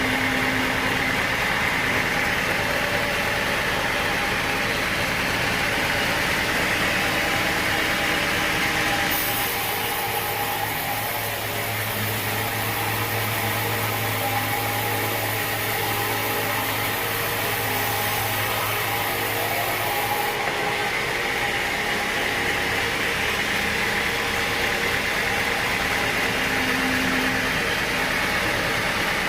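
Sawmill machinery running steadily, with a change in its sound for about eleven seconds in the middle.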